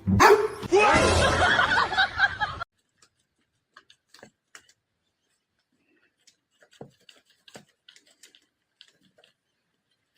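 A dog barking loudly for about two and a half seconds, cutting off suddenly, followed by faint scattered taps and clicks.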